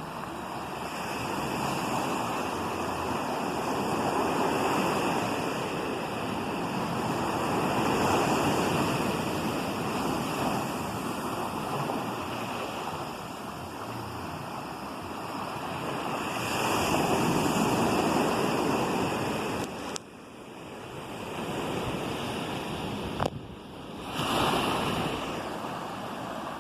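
Ocean surf: waves breaking and washing in, the rushing noise swelling and ebbing every few seconds. A single sharp click sounds near the end.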